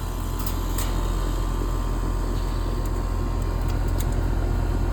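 Steady low machine hum, with a few faint clicks about half a second and a second in.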